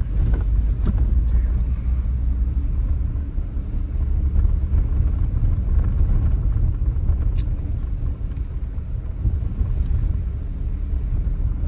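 Steady low road and engine rumble of a moving car, heard from inside the cabin, with one faint click about seven seconds in.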